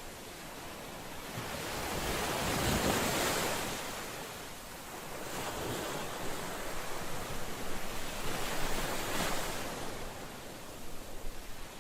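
Ocean waves breaking on the shore, the surf swelling and ebbing in slow surges, loudest about three seconds in and again near nine seconds.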